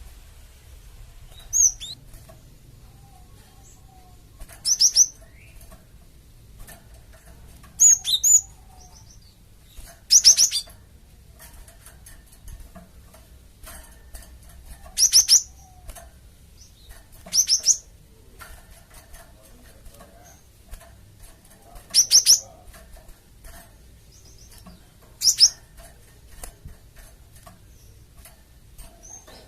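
Cinereous tit giving short, high, downward-sweeping chip calls, singly or in quick pairs, every few seconds, over a faint low hum. This is a lure recording of the gelatik batu.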